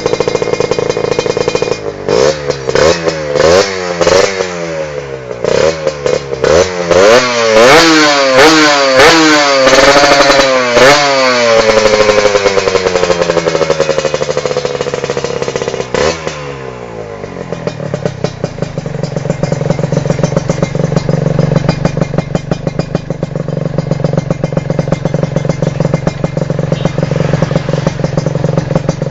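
Kawasaki Ninja R two-stroke motorcycle engine through a racing exhaust, revved in quick repeated throttle blips for about ten seconds, then falling back and settling into a steady idle.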